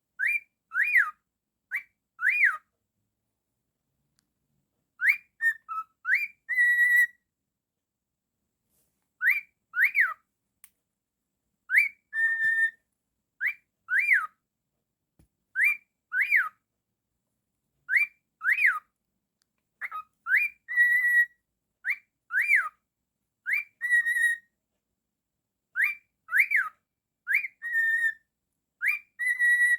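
Cockatiel whistling a repeated tune: quick notes that swoop up and down, in groups of two or three, some phrases ending on a short held note, with brief pauses between the phrases.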